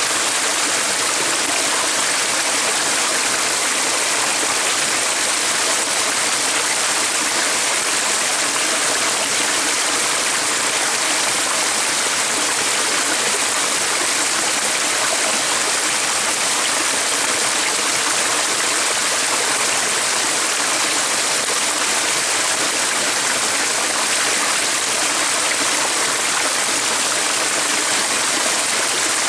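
Water of a stream running over stones, a steady rushing and burbling without change.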